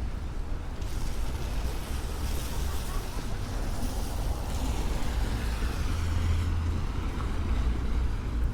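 Street traffic on a wet road: a steady low rumble, with the hiss of tyres on wet pavement swelling from about a second in and fading after about six seconds as a vehicle passes.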